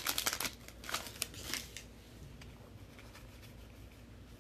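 Trading-card pack wrapper crinkling and cards being handled, a quick flurry of crackles and rustles in the first two seconds, then only faint handling noise.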